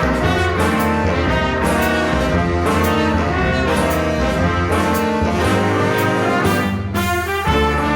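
Jazz band playing, with trumpets and trombones carrying the tune over piano and a steady drum-kit beat.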